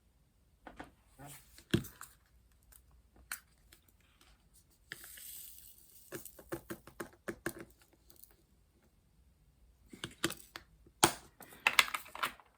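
Handling noises from crafting at a table: scattered light clicks and taps, a short crinkling rustle about five seconds in, and a quicker run of clicks near the end.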